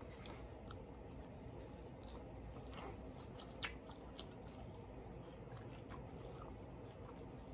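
A person chewing a mouthful of food with the mouth closed: faint, scattered mouth clicks, with one sharper click a little past halfway.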